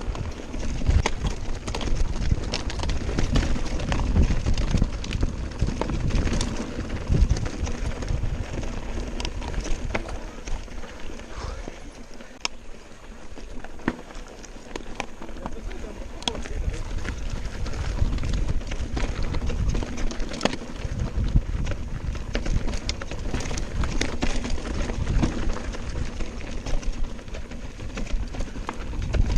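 Mountain bike descending a rough trail: tyres running over stones with the bike rattling and knocking, quieter for a few seconds in the middle before picking up again.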